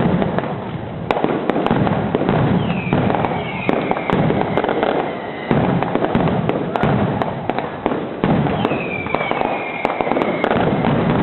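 Fireworks display: a continuous run of overlapping bangs and crackling, with high whistles falling in pitch twice.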